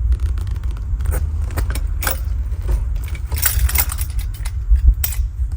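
Metal clanks and rattles of a steel motorcycle paddock stand being handled, a cluster of clatter about three and a half seconds in, over a steady low rumble.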